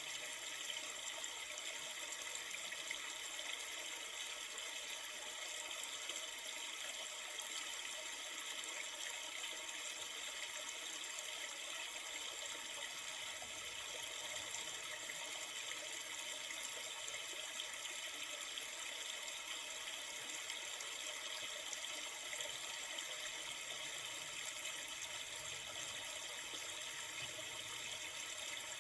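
River water flowing steadily, an even rushing hiss with no change.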